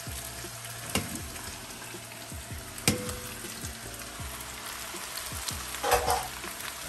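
Chopped vegetables sizzling in hot olive oil and butter in a pot on high heat as they are tipped in and sautéed, with two sharp clinks about one and three seconds in.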